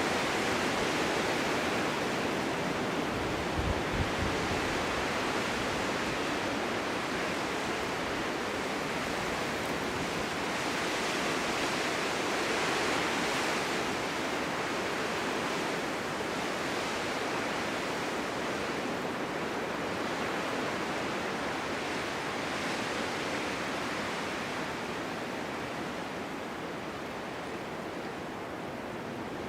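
Winter storm wind blowing steadily, swelling and easing in slow gusts, with a short low buffet about four seconds in.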